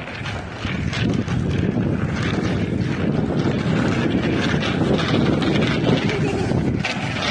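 Wind rushing over the microphone of a moving bicycle rider, with rolling noise from the ride, growing louder about a second in as the bike picks up speed.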